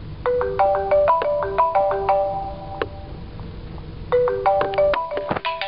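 Cell phone ringing with an incoming call: a marimba ringtone plays a short melody of struck notes, and the melody starts again about four seconds later.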